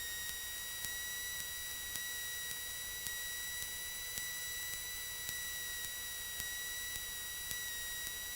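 Steady electrical whine with higher overtones over a faint hiss, with a faint tick about twice a second: line noise on a light aircraft's headset intercom audio feed, with no engine sound coming through.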